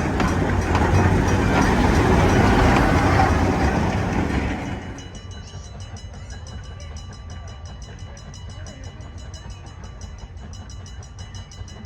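Train running on the rails, loud at first, then dropping sharply to a quieter low rumble a little under five seconds in.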